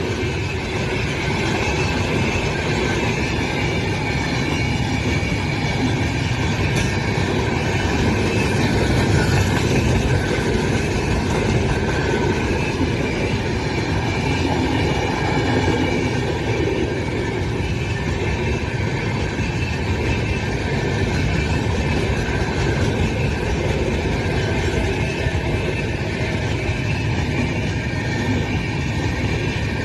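Janmabhoomi Express passenger train running on the track: steady rumble of coach wheels on the rails, even throughout.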